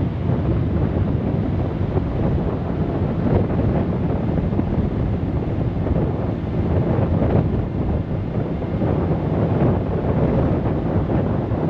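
Steady wind buffeting the microphone, with a heavy low rumble.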